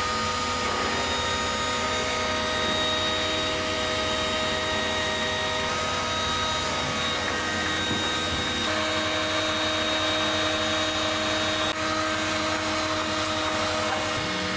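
Electric power tool running steadily, a motor's hum with a hiss of air or abrasion; its pitch shifts slightly about nine seconds in.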